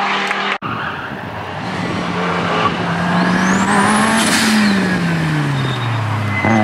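Group B rally car engine under hard running. After a cut about half a second in, its note climbs, falls away steeply about four seconds in, and climbs again near the end.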